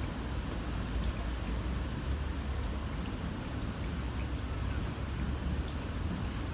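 Light rain hissing steadily, with a single insect's high, continuous trill that breaks off briefly near the end and starts again, over a low steady rumble.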